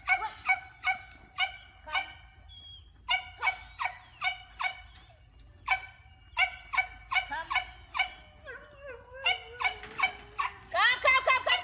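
A dog barking in rapid high-pitched runs, about three barks a second, with short pauses between runs and a denser, louder burst near the end.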